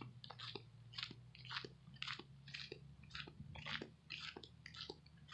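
Faint footsteps crunching on gravel, about two steps a second, over a low steady hum.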